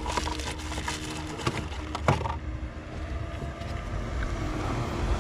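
A few sharp clicks and knocks of parts being handled in the first couple of seconds, then a low rumble of handling noise on the microphone that grows louder near the end.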